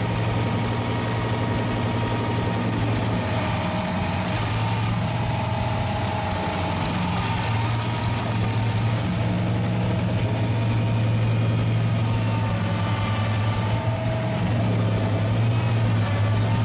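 A heavy machine's engine running steadily at an even speed, with no revving or cutting bursts.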